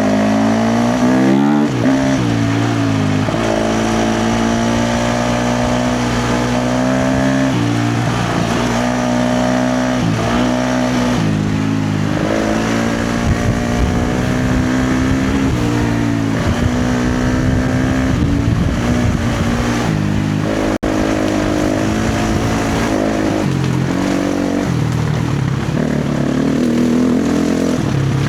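KTM 350 XC-F dirt bike's single-cylinder four-stroke engine under hard riding, its pitch rising and falling again and again as the throttle is opened and closed and the gears change. It stays loud throughout.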